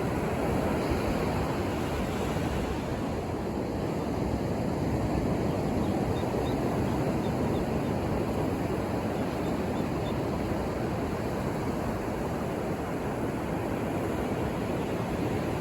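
Ocean surf washing onto a beach: a steady, deep rush of breaking waves with only slight swells in loudness.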